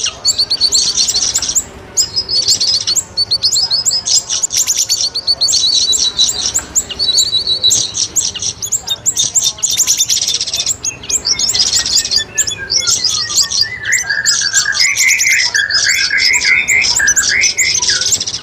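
Recorded bird-luring calls: dense, rapid high chirps and trills of the kind used to lure cucak rawis (a leafbird) and siri-siri birds. About eleven seconds in, a lower whistled series of notes falls in pitch and runs into a warbling phrase.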